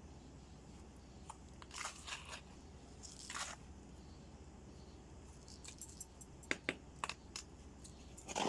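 Faint handling noises: a few short rustles and scattered sharp clicks, with a louder rustle near the end.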